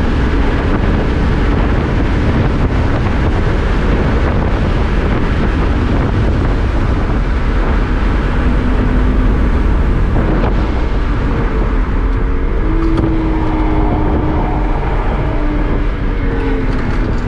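BMW 1 Series's inline-six engine running under load with tyre and wind noise, heard from inside the cabin. The engine note rises and falls with the throttle, sitting higher about twelve seconds in.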